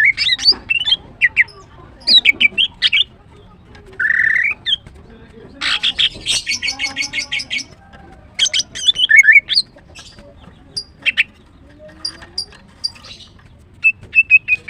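Female greater green leafbird chirping and squawking in quick bursts of sharp high notes, with a fast even run of about a dozen notes some six seconds in.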